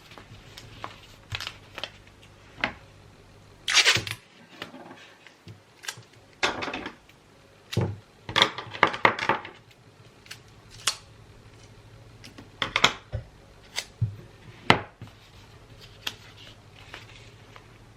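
Gift-wrapping handling sounds: hands working with wrapping paper and gifts, making scattered taps and clicks and short bursts of paper rustling and crinkling, with quiet pauses between them.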